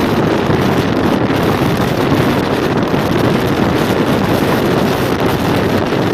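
MEMU electric multiple-unit train running, a steady loud rumble with wind buffeting the microphone.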